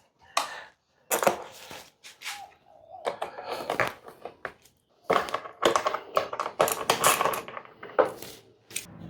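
Hand tools clicking, scraping and rattling against metal and plastic as hose clamps are undone and the front light shroud of a motorcycle is worked loose. The clatter is irregular and busiest in the second half.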